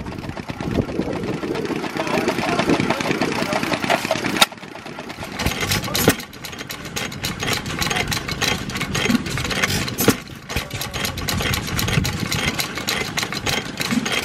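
Antique hit-and-miss stationary engines running: a rapid run of clicks and pops over a rumble, the sound changing abruptly a few times.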